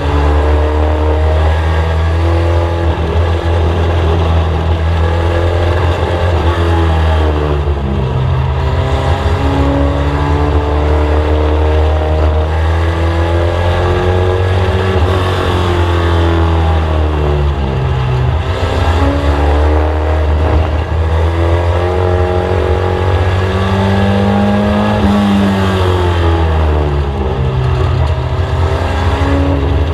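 In-car sound of a Mk1 VW Scirocco race car lapping an oval. The engine rises in pitch under acceleration and falls back as the driver lifts, about twice, over a constant low drone.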